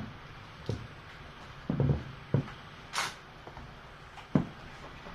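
Several scattered soft knocks and bumps with a short breathy rustle about three seconds in: kittens wrestling and tumbling about.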